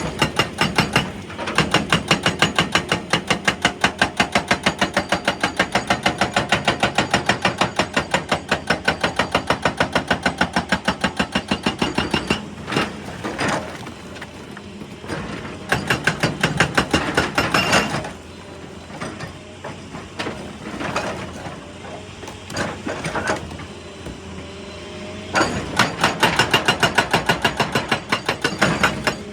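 Excavator-mounted hydraulic breaker hammering rock in rapid, even blows: one long run, then two shorter runs later on, with scattered knocks and scraping in between.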